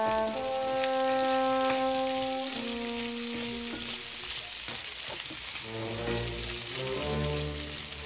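Bell peppers and garlic sizzling in a cast-iron skillet as a wooden spoon stirs them. Background music of held notes plays over it and drops out for about two seconds in the middle.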